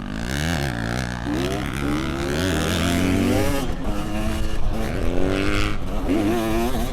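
250cc two-stroke dirt bike engine revving up and dropping off several times as it is ridden around a motocross track, with wind rushing past.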